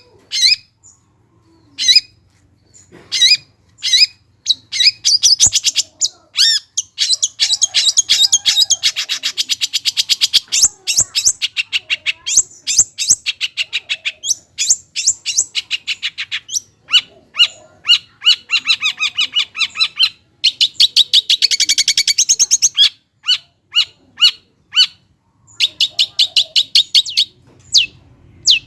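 Long-tailed shrike (cendet) singing loudly and without pause: sharp, high single calls at first, then long runs of fast repeated chattering notes, one about a quarter of the way in and another about three-quarters through, broken by spaced separate calls.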